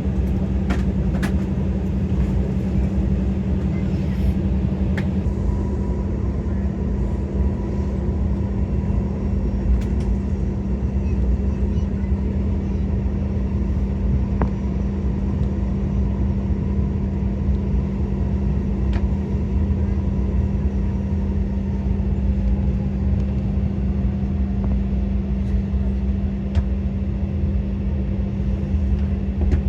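Steady cabin rumble of an Embraer E190 airliner taxiing, its engines and air system giving a constant low hum, with a few faint clicks.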